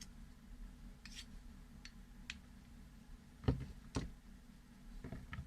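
A few light clicks, then two louder knocks about half a second apart and a short cluster of clicks near the end, as of small hard objects being handled, over a steady low hum.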